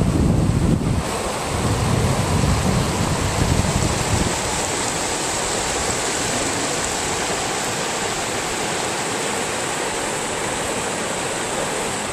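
Steady rushing of overland floodwater, with wind buffeting the microphone in gusts for roughly the first four seconds.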